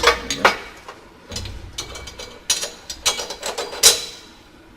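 Irregular metallic clanks, clicks and rattles from the rear axle assembly and its suspension hardware being worked loose and shifted on jack stands, the loudest clank near the end.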